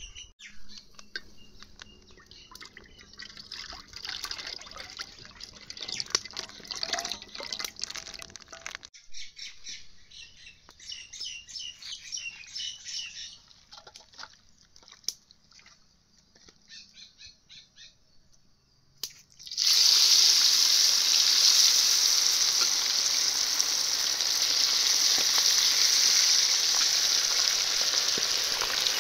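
Scattered clinks and handling noises of cooking. About two-thirds of the way in, a loud sizzle starts suddenly and runs on steadily: food going into hot oil and frying.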